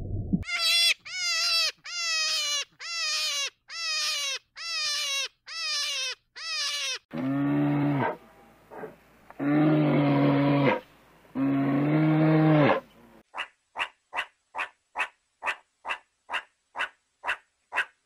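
A run of animal calls in three parts: eight short calls, each falling in pitch; then three long, low calls from a brown bear; then a fast, even run of short chirps, about three a second.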